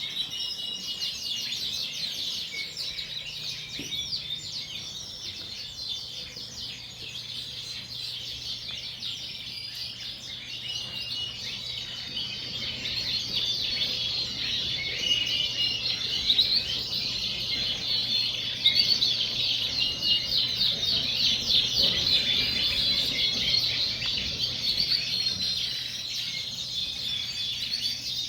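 Many Yorkshire canaries singing together: a dense, continuous chorus of fast high trills and chirps, growing louder about halfway through.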